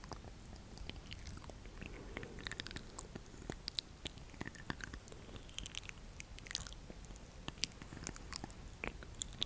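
Close-miked ASMR mouth sounds: irregular small clicks and pops, several a second, with no words.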